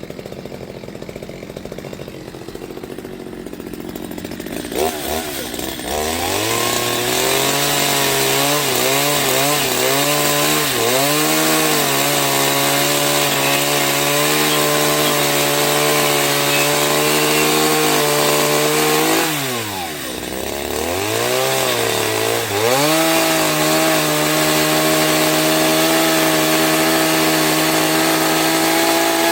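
Chainsaw engine running at high revs, starting about six seconds in after a quieter stretch. Around two-thirds of the way through it eases off briefly, then revs up again and holds steady.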